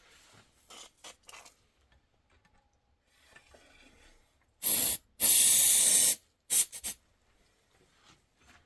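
A spray hissing in bursts: a short burst, then a longer one of about a second, then three quick short bursts.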